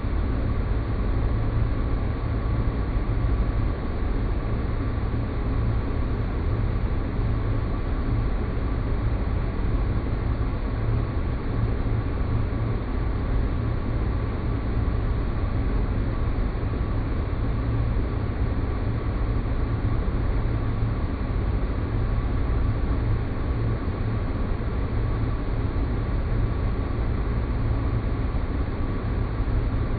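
Steady, unchanging low rumble of synthetic space ambience, with a faint held tone high above it.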